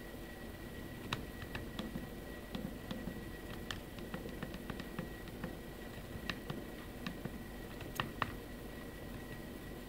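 Nokia N85 slide phone being handled, its plastic slider and housing giving off irregular small clicks and rattles: the play in the slider mechanism. A faint steady high whistle runs underneath.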